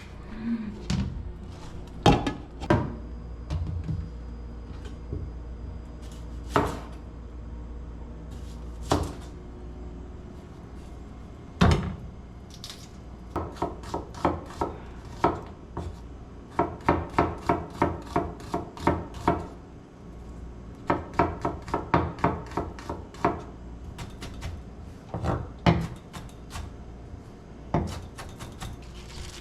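Knife chopping on a cutting board: single sharp chops and several quick runs of about three strokes a second.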